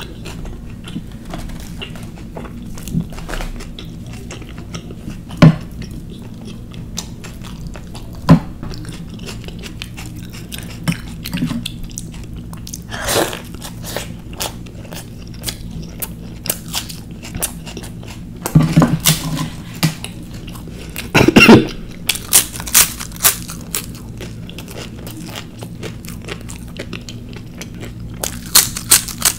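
Close-miked chewing and biting, with scattered sharp crunches. A cluster of louder bites comes about two-thirds of the way through, and a run of crisp crackling crunches comes near the end.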